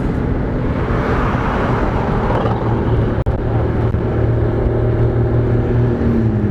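On board a 100cc motorcycle at road speed: the engine's steady hum under heavy wind and road noise. Near the end another vehicle overtakes, its tone falling in pitch as it passes.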